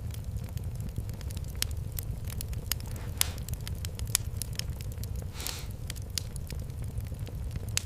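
Wood fire crackling, with irregular sharp pops and snaps over a steady low rumble, and a short hiss about five and a half seconds in.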